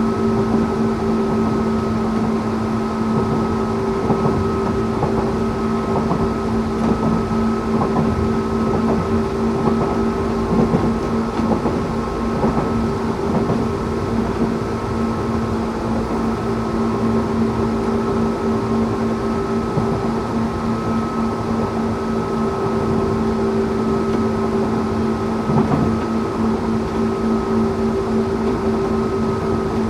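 Interior running sound of a Tokyu 8500 series electric train with Toyo Denki traction motors. Several steady held tones sit over a continuous rumble of wheels on rail.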